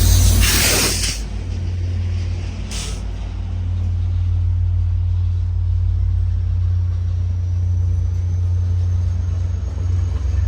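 Diesel train rumbling steadily, with a loud burst of air hiss in the first second and a shorter one about three seconds in. A faint high whine rises in from about halfway.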